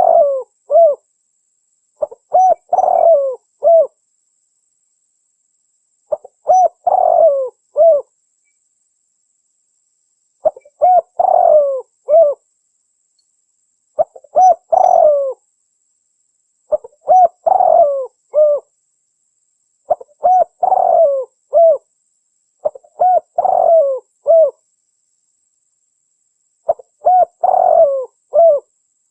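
Spotted dove (tekukur) cooing, from a bird-lure recording: a phrase of several soft coo notes repeated about every three seconds, each lasting one to two seconds with short silences between.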